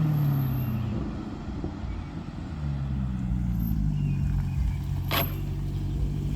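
Maserati GranTurismo MC Sport's V8 engine heard from the moving car, easing off with its pitch falling, then pulling again with the revs rising steadily. About five seconds in there is a single short, sharp knock, which the driver puts down to the front mud flaps scraping.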